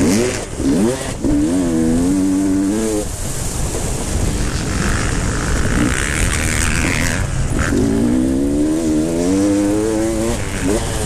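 Motocross motorcycles racing past on the track, their engines revving and climbing in pitch as they accelerate. The pitch drops between gears. The engine note is strongest in the first three seconds and again from about eight seconds in, with quieter, more distant engine noise in between.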